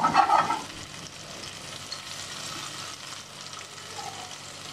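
Skewers of marinated chicken, onion, tomato and capsicum frying in shallow oil in a frying pan, giving a steady sizzle that is louder for about the first half second.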